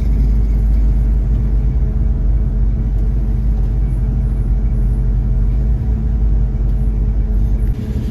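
1972 Ford Mustang Mach 1's V8 engine running steadily under way, a deep, even rumble, with a brief dip near the end.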